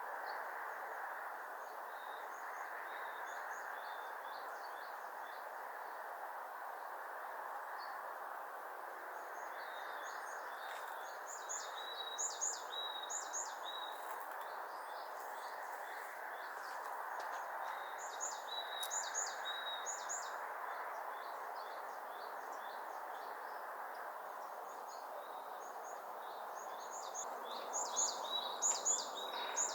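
Small songbird calling in quick series of short, high chirps. The chirps come in bouts about ten seconds apart, the loudest near the end, over a steady rushing background noise.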